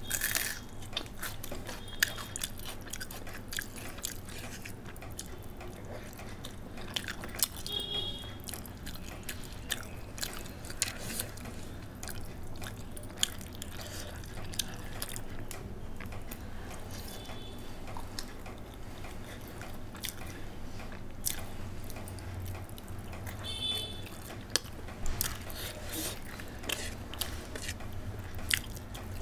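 Close-up chewing and biting of a hand-eaten meal of rice, fried boiled egg and offal curry, with many small wet mouth clicks scattered through.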